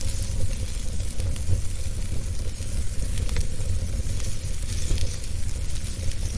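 Wood fire burning in a fireplace, with a steady low rumble of flames and scattered small crackles and pops.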